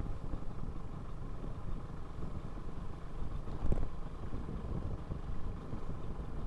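Motorcycle running on the road: a steady rumble of engine and road noise while riding, with one louder knock a little past halfway.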